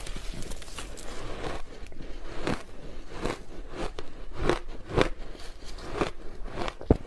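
Close-miked biting and chewing of large chunks of reshaped ice: a quick series of sharp, crisp crunches, about one or two a second.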